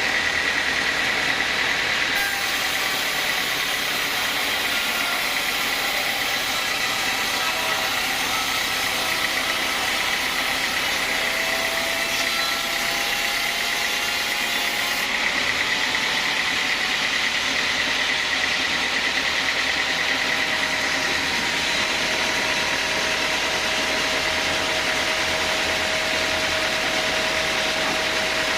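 Sawmill band saw running steadily, with a constant high-pitched tone over the machine noise.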